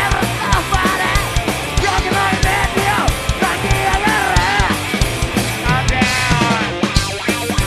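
A rock band playing loudly with steady drum beats under electric guitar and bass, and a sliding, bending lead melody on top.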